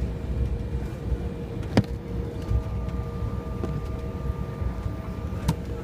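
Steady low rumble and hum of an Embraer 175 airliner's cabin, with a couple of faint steady tones over it. Two sharp clicks cut through it, one about two seconds in and one near the end.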